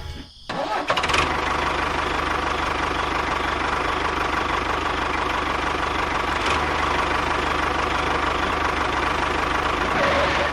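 A motor running steadily with a constant whine, starting about half a second in after a brief gap.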